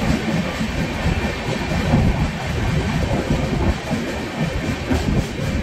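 Karnavati Express passenger coach running through a station, heard from an open door: steady running noise of the wheels on the rails.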